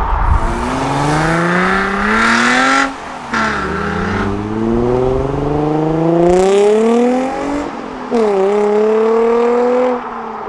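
A performance car accelerating hard, its engine pitch climbing through the revs, with upshifts about three seconds in and again about eight seconds in.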